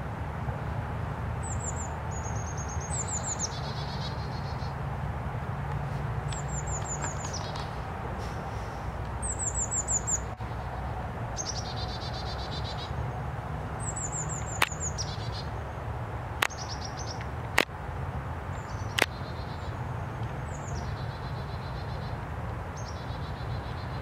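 A songbird singing short repeated phrases every few seconds, each a quick run of high, falling notes followed by a lower buzzy trill, over a steady low background rumble. Four sharp clicks come in the second half.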